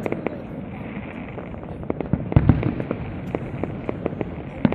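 Castillo aerial fireworks display: a constant crackle of bursting shells and firecracker reports over a low rumble, with a cluster of louder bangs about halfway through and another sharp bang near the end.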